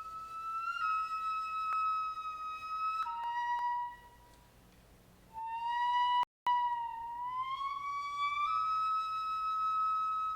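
A solo flute playing Kibigaku, traditional Japanese ceremonial music: long held high notes that step down in pitch about three seconds in, break off briefly, then slide slowly back up to the high note and hold it.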